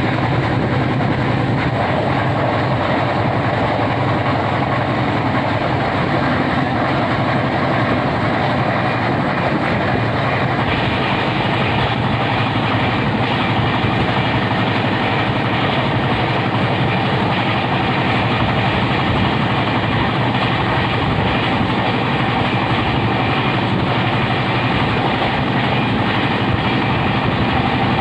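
Passenger train running at speed, heard from aboard: a steady rush of wheels on the rails and running noise. The sound brightens a little about ten seconds in.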